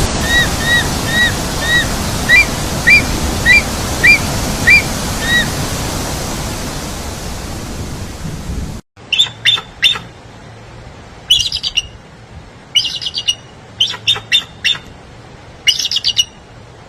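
Bird calls over a steady rushing noise: a short call repeated about twice a second for some five seconds. After a sudden cut, a different bird gives bursts of rapid chirps and trills.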